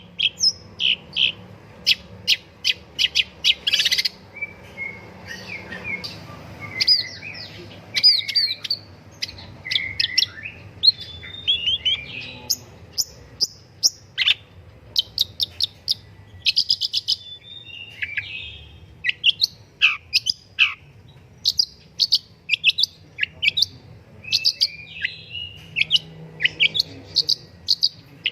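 Long-tailed shrike (pentet, cendet) singing in full voice: a fast, varied, unbroken run of sharp chirps, rapid clicking trills and short gliding whistles.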